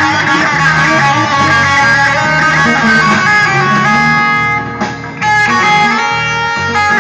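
Electric guitar playing a blues piece, held notes over lower bass notes, with a short drop in level about five seconds in.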